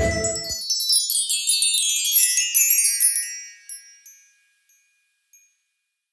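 Music cuts off about half a second in, then a shimmering cascade of high chimes, like a wind chime or magic-sparkle effect, runs downward in pitch for about three seconds and fades out.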